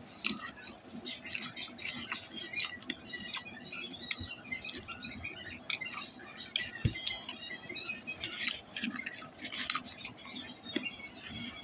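Close-up chewing, lip-smacking and wet mouth clicks of someone eating chicken nuggets, with one thump about seven seconds in.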